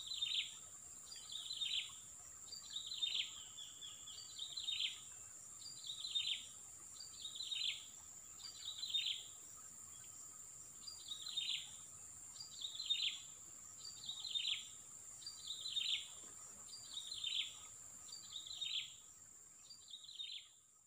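A bird calls over and over, a short falling call about every second and a half, over a steady high insect whine.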